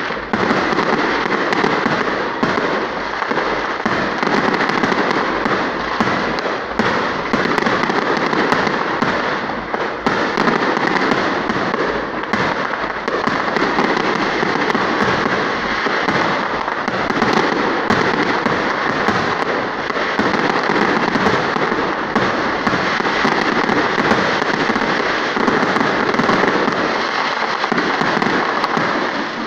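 Aerial fireworks show: many shells bursting close together in a loud, dense, unbroken barrage of bangs and crackling.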